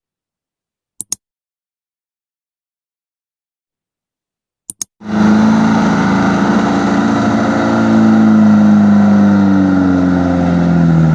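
Silence broken by two pairs of short clicks. About five seconds in, a loaded diesel truck's engine comes in loud and runs hard under load, its pitch sliding down and back up as it revs.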